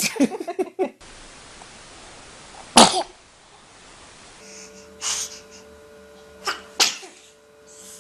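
Babies sneezing, one short clip after another: a sharp sneeze about three seconds in, the loudest, then more sneezes in the second half, two of them close together near the end.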